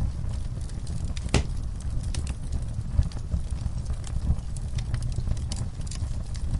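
Wood fire crackling and popping over a low steady rumble of flames, with one sharp pop about a second and a half in.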